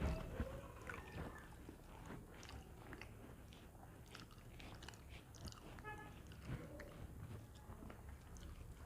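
A person chewing and eating food close to the microphone, with small wet clicks and crunches. A brief high-pitched squeak comes about six seconds in.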